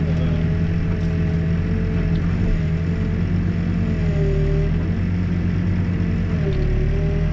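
New Holland B95 backhoe loader's diesel engine running steadily under digging load, with a thin whine above it that dips and rises several times as the hydraulics work.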